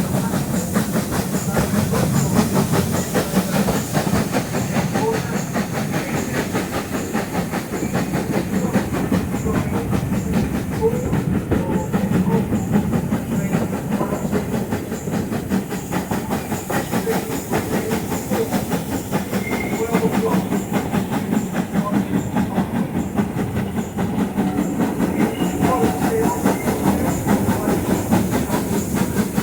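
Steam-hauled train running steadily along the line, heard from on board: a continuous rumble with wheels clattering over the rails and some steam hiss.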